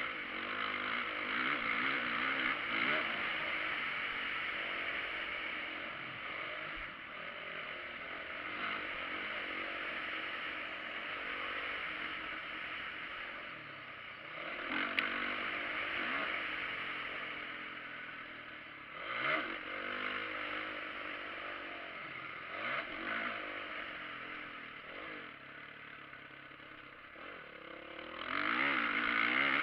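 Motocross bike engines revving up and down as they ride, the pitch rising and falling again and again, with a louder run of revving near the end.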